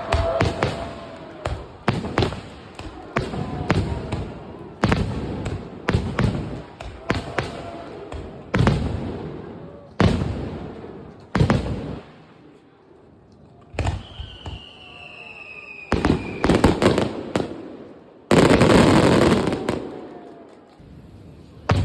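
Fireworks display: aerial shells bursting one after another, each bang trailing off in an echo. A whistle falls in pitch about two-thirds of the way through, then a dense, loud stretch of crackling bursts follows near the end.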